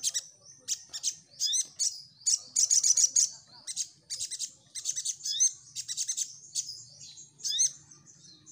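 Sogon (sogok ontong) sunbird singing: rapid, high-pitched chirps and twittering trills with quick rising sweeps. The song runs in short bursts with only brief pauses, loudest around three seconds in.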